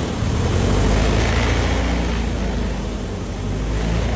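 Engine of a 112-year-old Edwardian car running steadily, with a slight dip in level about three seconds in.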